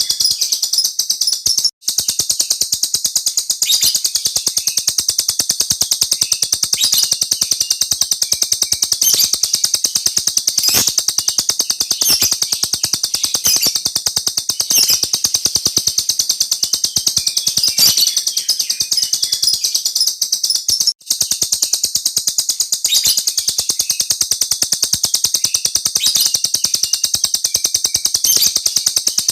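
Small cage bird singing a long, very fast rolling trill of high chirps, almost unbroken and steady in loudness, cutting out briefly twice.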